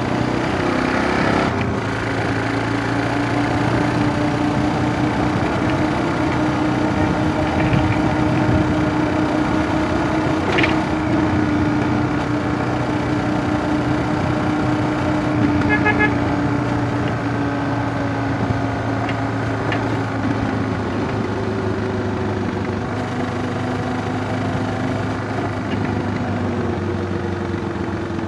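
Suzuki DR650 single-cylinder engine running at a fairly steady speed while the bike is ridden, its pitch drifting slowly up and down, with a few brief clicks or knocks.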